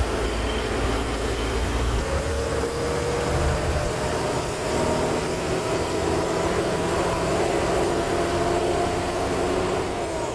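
Truck engine running steadily along with road noise, its pitch rising slowly.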